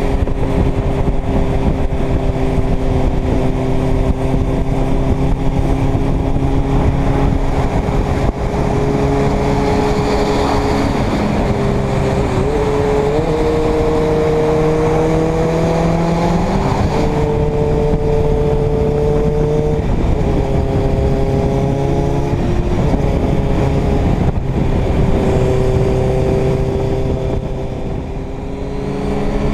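Inline-four motorcycle engine running under way, with wind rush. The engine note holds steady for stretches of a few seconds and shifts up or down in pitch about half a dozen times as the throttle and gears change. It dips briefly near the end, then rises again.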